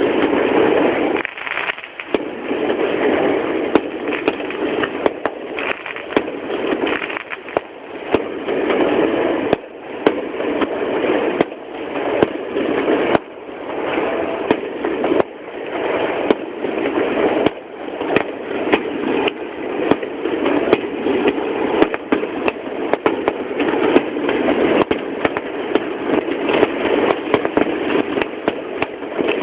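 Aerial fireworks going off in a dense, continuous barrage of bangs and crackles, many sharp cracks close together. A poor mobile-phone recording, so the sound is unclear and dull.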